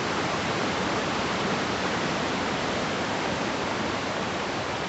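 Waterfall, its falling water making a steady, even rush.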